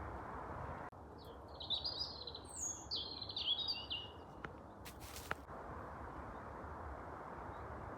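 A songbird sings a quick, warbling phrase of about three seconds, followed by a few sharp clicks, over a steady background hiss.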